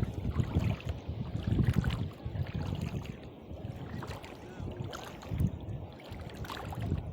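Water lapping at the shallows, with wind buffeting the microphone in irregular low rumbling gusts.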